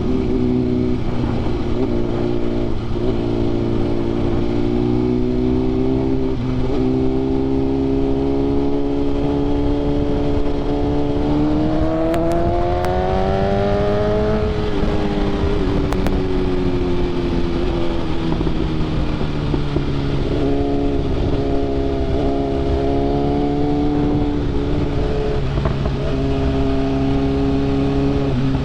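BMW S1000RR sport bike's inline-four engine, breathing through an SC Projects CRT exhaust, running at steady road speed. Its note climbs for a few seconds near the middle as the bike accelerates, then eases back down, over a steady rush of wind noise.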